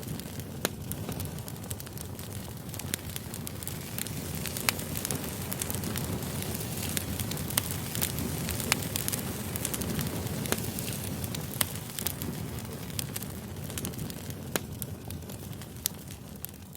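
Wood campfire burning, with a steady low rush of flame and frequent sharp crackles and pops from the wood. It fades out near the end.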